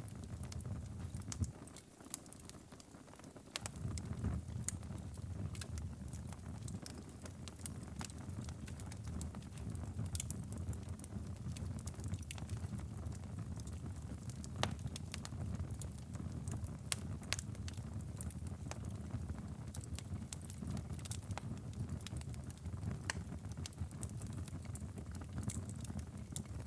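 Wood fire crackling and popping in a fireplace: frequent sharp, irregular pops and snaps over a steady low rumble, which fades briefly near the start.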